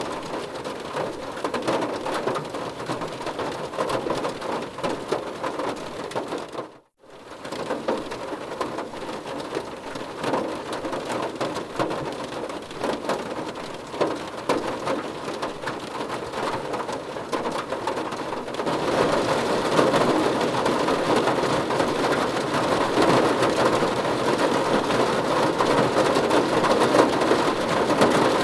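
Steady heavy rainfall, hissing evenly, with a brief drop to silence about seven seconds in. Past the middle the rain turns suddenly louder and denser and stays so.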